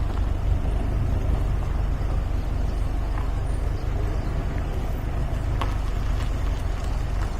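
MG MGA roadster driving along at a steady pace: an even low engine drone with road and wind noise and no change in revs.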